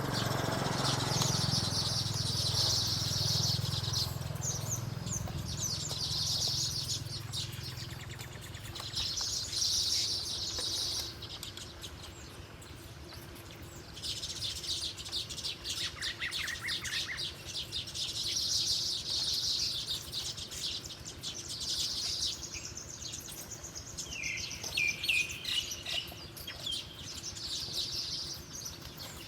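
Small birds chirping: rapid high twittering in runs of a few seconds each with short pauses between, and a lower, separate series of chirps about halfway through and again near the end.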